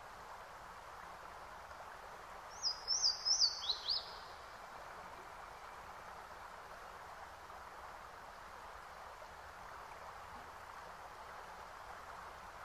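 A bird singing a quick run of about six chirps that step down in pitch, about three seconds in, over a steady hiss of background noise.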